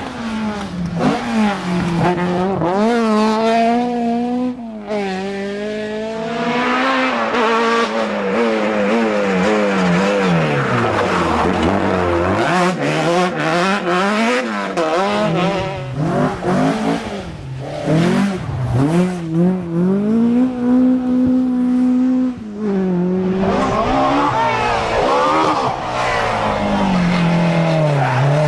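Rally car engine driven hard, its revs repeatedly climbing and falling sharply through gear changes and lifts off the throttle, with the revs sinking low twice in the middle.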